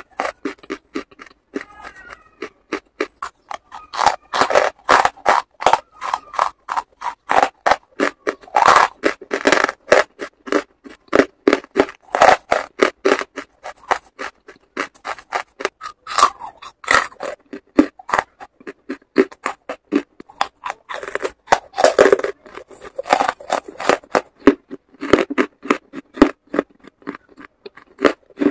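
Close-up chewing of hard black charcoal chunks: a dense, irregular run of sharp crunches, several a second.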